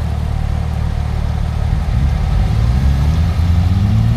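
A 4x4's engine running low and steady, then revving up with a steadily climbing note from about two seconds in, as it is put under load for a rope recovery of a vehicle stuck in mud.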